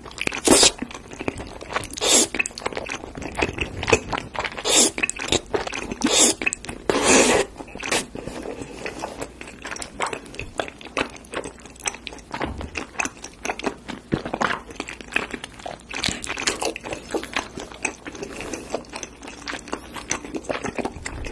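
Close-up eating sounds of chewy Korean rice cakes (tteokbokki) in red sauce: several loud slurps in the first several seconds as the long rice cakes are sucked in, then steady wet chewing with small clicks and squelches.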